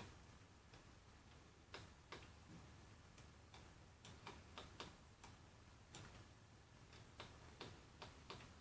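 Faint, irregular computer mouse clicks, a dozen or so, over a low room hiss.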